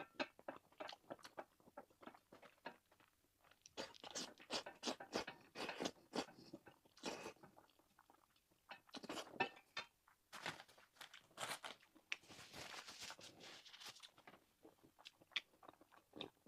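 A person chewing food close to the microphone: irregular crunching bites and chewing in quick clusters, with short pauses between.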